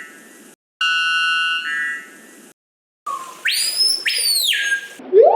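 Bird calls: a buzzy, electronic-sounding held note that steps up in pitch partway through, given twice, then two loud whistles that each sweep up and fall away. Near the end a new note slides sharply upward.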